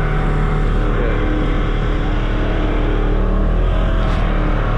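Vehicle engine running at a steady speed: a constant low drone with a dense, even wash of road and wind noise.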